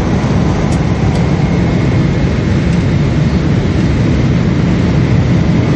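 Steady engine and air noise inside the cabin of a Boeing 777, a deep even rumble with a faint high steady whine.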